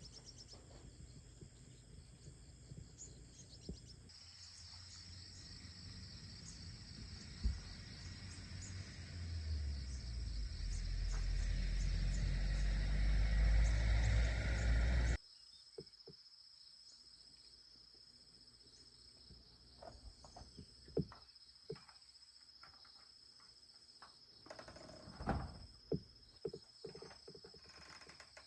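Insects chirring steadily. A low rumble builds over several seconds and cuts off suddenly about halfway through, followed by a few scattered knocks.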